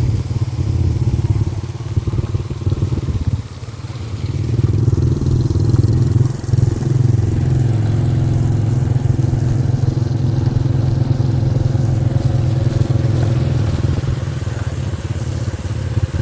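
Motorcycle engine running while riding, easing off briefly about three and a half seconds in and then picking up again.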